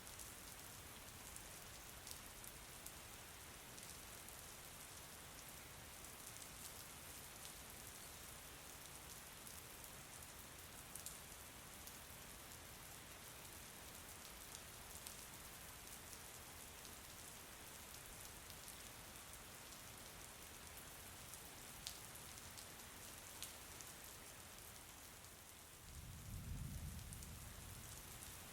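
Steady rain falling, with scattered individual drops ticking through it. Near the end a brief low rumble swells and fades.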